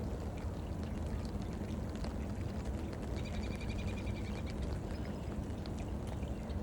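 Wind buffeting the microphone as a steady low rumble, with gentle rain pattering in light ticks. A bird gives a quick trill of rapid repeated notes about halfway through.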